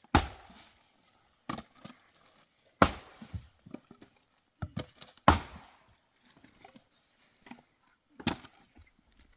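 Firewood being chopped: about five sharp blows on wood, unevenly spaced a second or more apart.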